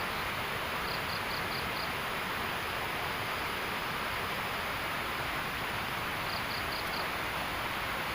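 River flowing behind the hut: a steady rush of water. Over it come two short runs of high, evenly spaced chirps, five about a second in and four more near the end.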